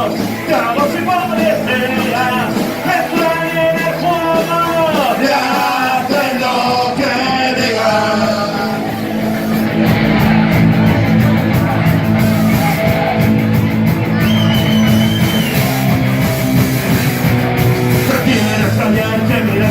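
Rock song played by a band with a sung vocal line for the first half. About halfway in it turns into a louder instrumental passage, and the singing comes back near the end.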